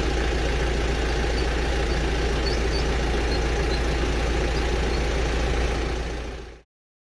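Engine idling steadily, with a few faint high cheeps over it; the sound fades and cuts off abruptly near the end.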